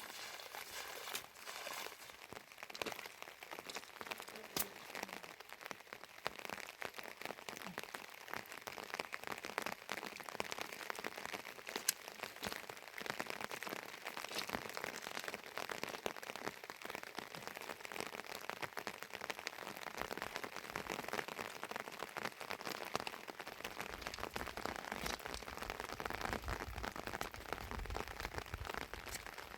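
Heavy rain falling steadily, with many sharp drop impacts. A low rumble rises near the end.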